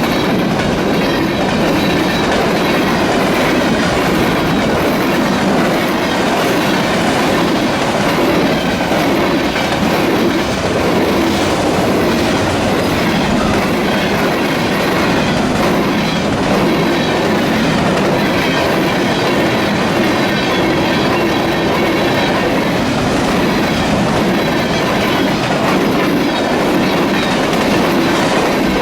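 A train rolling steadily past, its cars' wheels running over the rails in an unbroken, even noise.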